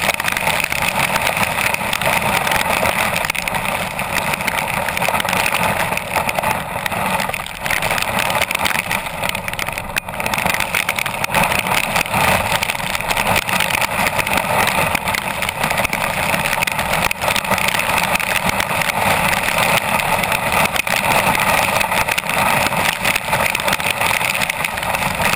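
Steady, loud noise of heavy rain and wind on a car-roof-mounted camera in a severe thunderstorm, with no letup.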